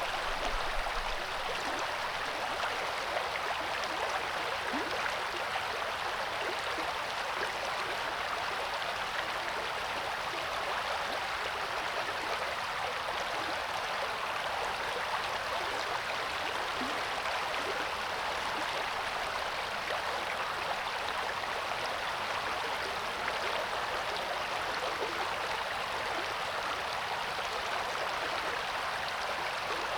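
River water rushing and splashing over rocks, a steady even rush.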